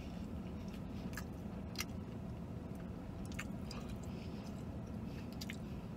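A man chewing a mouthful of crispy fried chicken sandwich, with soft, scattered mouth clicks and crunches over a steady low hum in a car cabin.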